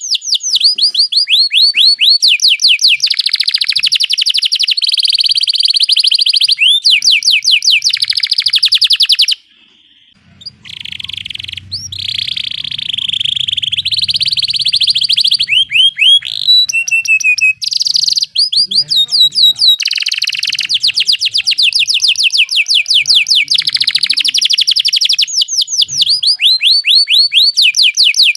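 Domestic canary singing long rolling trills: rapid runs of repeated down-slurred notes in phrase after phrase, broken by a brief pause about ten seconds in.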